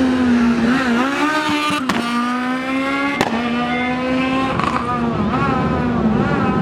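Rally car engine accelerating hard, its pitch climbing through two gears with a sharp crack at each upshift, after a wavering stretch of throttle work at the start; it fades away in the last couple of seconds.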